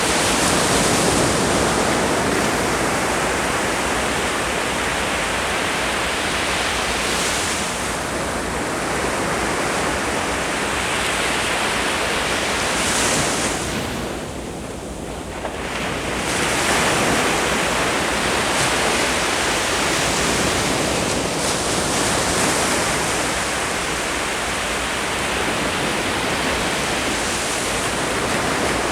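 Ocean surf breaking and washing up the beach in a continuous rush that swells and eases, with a brief lull about halfway through before the next wave comes in.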